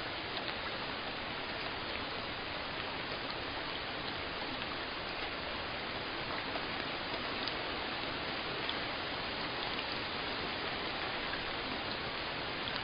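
Steady rain falling, an even hiss with scattered small drop taps.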